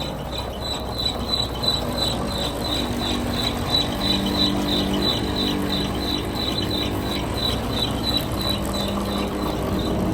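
Peterbilt 377 manure spreader truck running, with a rhythmic high-pitched squeak about three times a second over the low hum of the engine.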